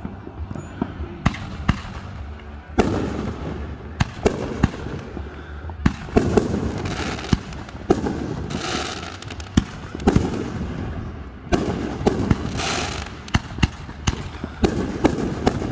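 Aerial fireworks display going off: a steady run of sharp booms from shells bursting overhead, with crackling, sizzling stretches between them.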